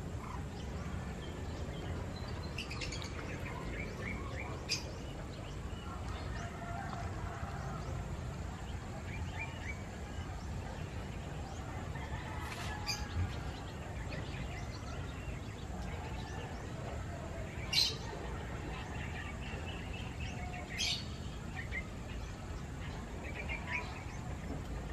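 Birds chirping now and then, five short sharp calls with faint twittering between them, over a steady low background rumble.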